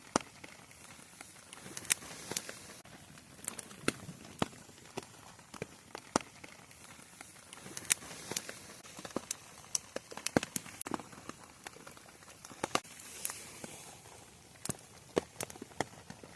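Wood fire crackling: irregular sharp pops and snaps, some loud, over a soft steady hiss of burning.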